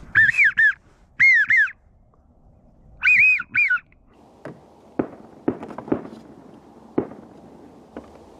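Wigeon whistles: three loud bursts of two or three rising-and-falling whistled notes in the first four seconds. After that come several sharp knocks.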